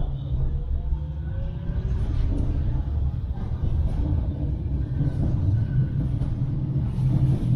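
Manchester Metrolink light-rail tram running along the track: a steady low rumble with a few faint clicks, growing a little louder near the end.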